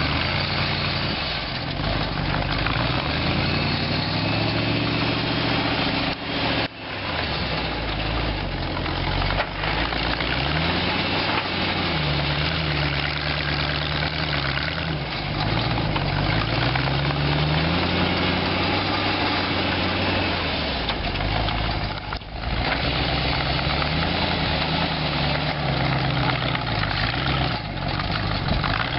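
Homemade tractor's Chrysler 318 V8 engine running, its pitch rising and falling repeatedly as it is revved and eased off, with two brief drops in sound about a quarter and three quarters of the way in.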